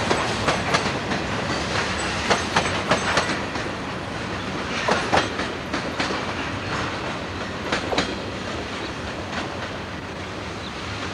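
Freight train cars rolling past, wheels clacking over rail joints in an irregular run of sharp clicks over a steady rumble that eases slightly toward the end.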